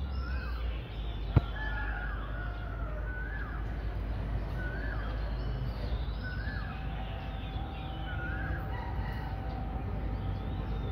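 A bird calling over and over, one short call about once a second, over a steady low background rumble.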